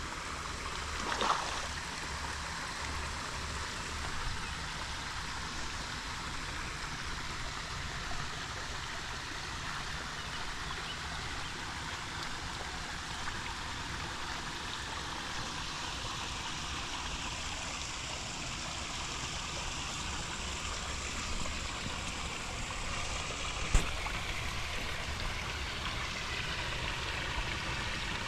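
Water running steadily into a garden pond, an even rushing hiss, with one sharp click near the end.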